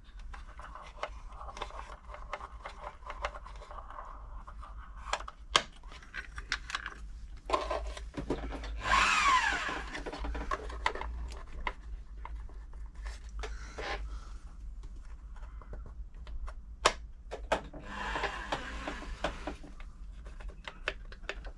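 Small clicks, taps and rubbing of hands setting up a sewing machine's bobbin and thread for bobbin winding, with one louder brief whir that falls in pitch about nine seconds in.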